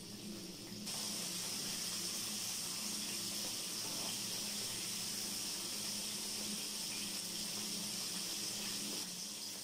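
Coated chicken breast shallow-frying in hot oil in a pan: a steady sizzling hiss that steps up in level about a second in and drops back near the end, over a low steady hum.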